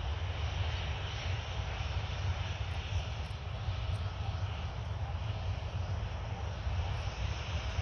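Jet engines of a taxiing Boeing 737-800 running steadily at taxi power, a deep low rumble under a broad, even hiss.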